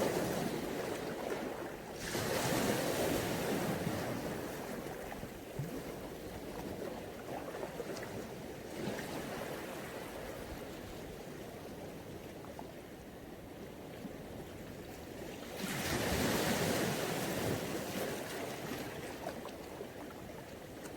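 Mediterranean Sea waves washing up on a beach: a steady wash of surf that swells as a wave comes in a couple of seconds in, and again with a bigger wave about three-quarters of the way through.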